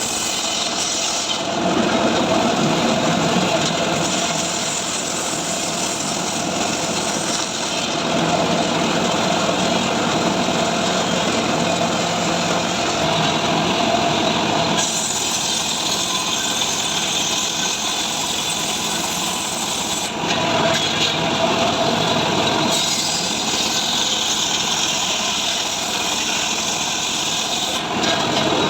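Stihl MS 382 two-stroke chainsaw running under load as it cuts dry mahogany, its pitch and tone changing several times as the cut goes on.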